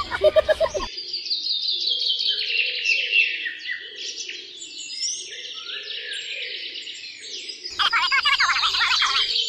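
Many small birds chirping and twittering steadily as background ambience. A louder warbling pitched sound effect cuts in during the first second and again for about a second and a half near the end.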